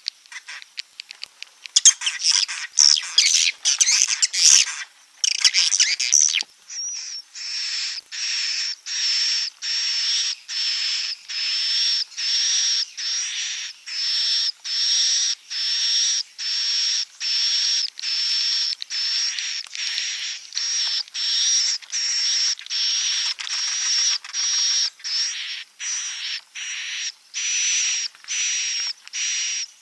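Swiftlet calls, the 'inap' roosting lure sound: a few seconds of fast, jumbled twittering, then a steady string of identical short, buzzy chirps, about three every two seconds.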